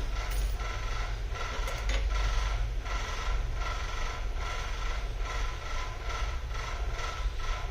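A small mechanism clicking over and over in an even rhythm, about three strokes a second, over a steady low hum.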